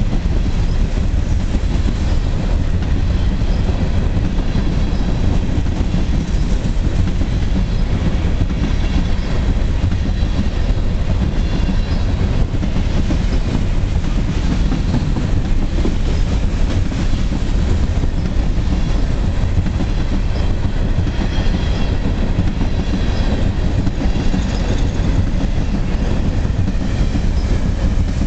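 Illinois Central freight train of covered hopper cars rolling past close by: a loud, steady rumble of steel wheels on the rails. Faint high-pitched wheel squeal comes and goes in the second half.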